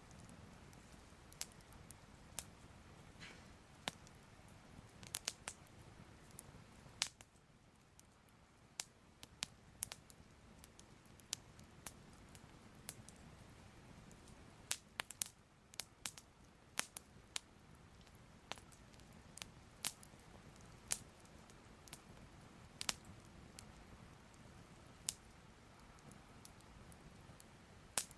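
Faint, soft fire crackling: sharp irregular pops and snaps, about one or two a second, over a low steady hiss.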